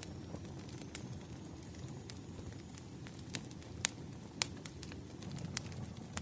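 Firewood burning and crackling: sharp, irregular pops over a steady low rumble.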